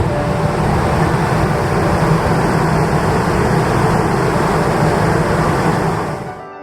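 Large car ferry under way at sea: a steady rumble of engine drone and rushing wind and water, which cuts off sharply about six seconds in.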